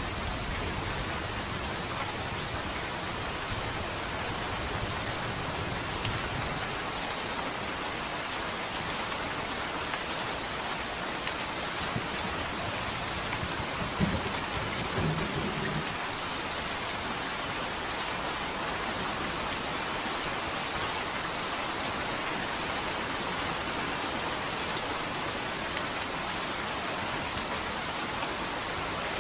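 Steady rain falling, an even hiss with scattered drops. A low thunder rumble fades out about six seconds in, and a brief low rumble of thunder comes about halfway through.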